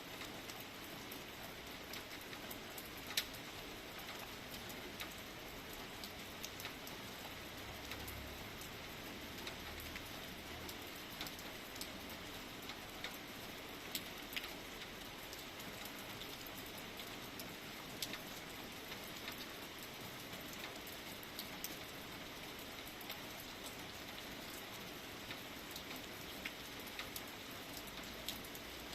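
Light rain falling steadily, an even hiss with scattered sharp drips of individual drops striking a surface.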